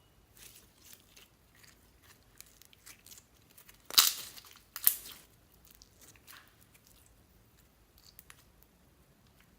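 Slime being kneaded and mixed by hand: a run of short sticky squelches and clicks, with two louder ones about four and five seconds in.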